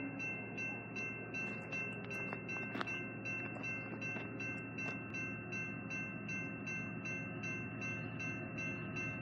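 A train passing, with a bell ringing in a steady rhythm of about two or three strokes a second over the rumble of the train.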